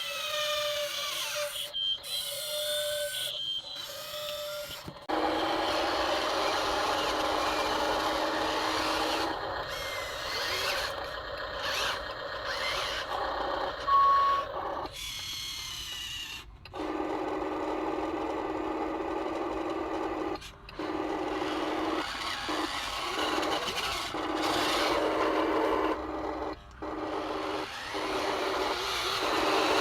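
Small electric motors and gearboxes of radio-controlled construction models running with a steady whine, broken off abruptly several times. A short beep sounds about halfway through.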